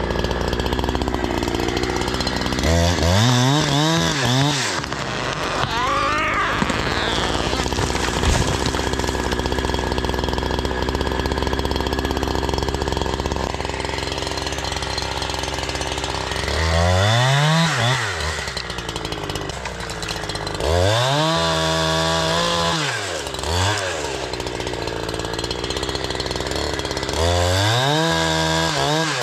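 Two-stroke chainsaw running, its engine revved up and back down several times between stretches of steadier running.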